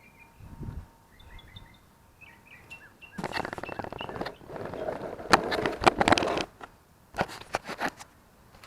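Rattling and clattering of hard objects being handled for about three seconds, from about three seconds in, then a few sharp clicks near the end. Birds chirp faintly in the first few seconds.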